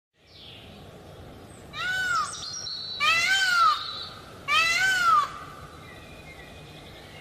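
A wild animal giving three meow-like calls, each rising and then falling in pitch, about a second and a half apart, over faint background hiss.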